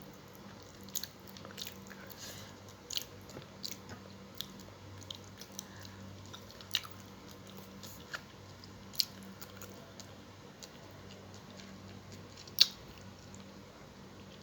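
Close-up eating sounds from a meal of fried tilapia and spinach: chewing with scattered sharp mouth clicks and smacks, the loudest about twelve and a half seconds in, over a faint steady hum.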